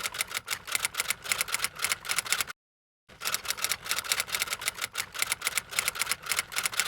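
Rapid, even clicking, several sharp clicks a second, cut off by a brief dead-silent gap about two and a half seconds in, then resuming.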